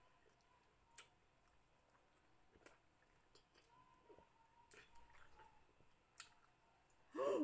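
Faint chewing and wet mouth clicks as people chew pieces of raw lemon, with a few sharp ticks spread through; a short burst of voice comes right at the end.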